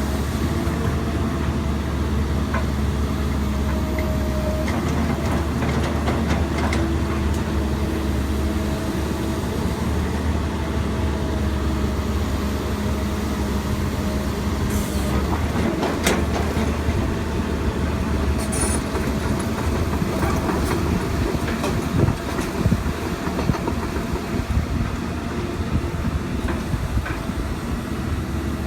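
Excavator's diesel engine running steadily under work, with a low hum and a few steady tones. A few sharp knocks land about halfway through and again a few seconds later.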